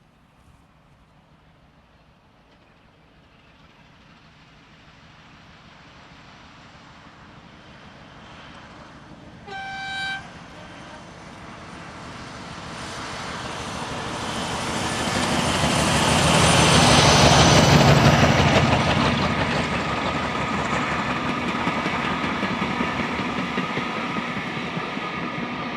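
Heritage diesel locomotive approaching with a train, giving one short horn blast about ten seconds in. It grows louder to pass close by around two-thirds of the way through, then runs on steadily.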